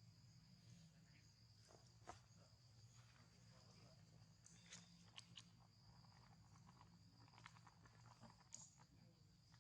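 Near silence: faint outdoor ambience with a steady high insect drone, a low hum and scattered faint clicks and rustles.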